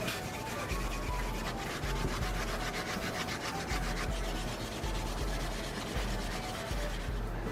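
Japanese mountain yam being rubbed back and forth on a grater: a steady run of quick, rasping strokes.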